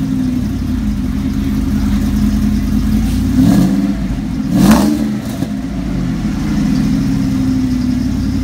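Car engine idling through an aftermarket exhaust of Kooks headers, a Magnaflow X-pipe and Borla XR1 mufflers, blipped twice in quick short revs about three and a half and five seconds in, then settling back to a steady idle.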